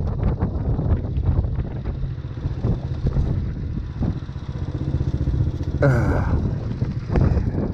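ATV engine running over rough ground, with irregular knocks and clatter through the steady engine noise. A short falling whine comes in about six seconds in.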